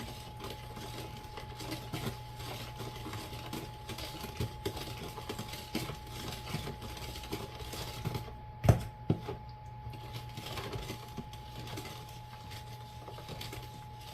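A spoon stirring a liquid dressing with crushed pineapple in a bowl: a steady run of small irregular clicks and scrapes against the bowl, with one louder knock a little past the middle.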